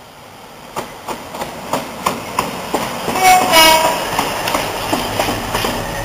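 Class 60 diesel locomotive passing close at speed with a train of tank wagons, its wheels clicking over the rail joints in a quickening rhythm. A short two-tone horn blast about three seconds in is the loudest moment.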